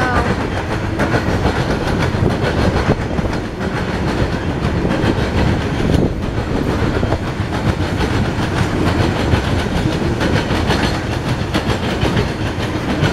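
Norfolk Southern coal hopper cars rolling past close by: a steady loud rumble of freight-car wheels on rail, with a run of clicks as the wheels cross rail joints.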